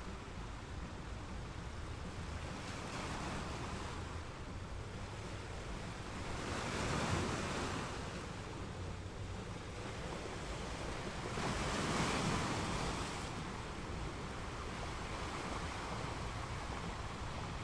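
Sea waves washing in over a steady low rumble, with two louder surges of breaking water, about six and twelve seconds in.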